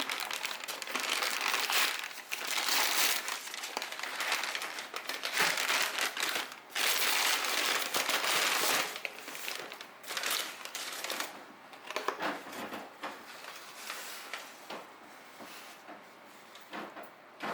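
Rustling and crinkling, dense and loud for roughly the first ten seconds, then fading to fainter, scattered crackles.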